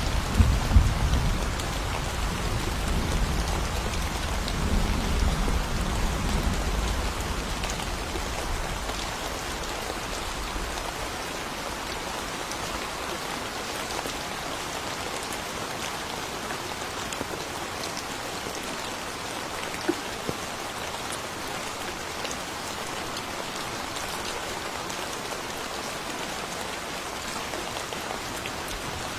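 Steady rain falling. The low rumble of thunder dies away over the first ten seconds or so.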